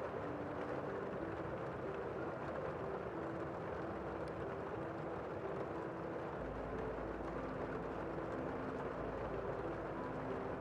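Gentle rain falling steadily, an even hiss with no single drops standing out.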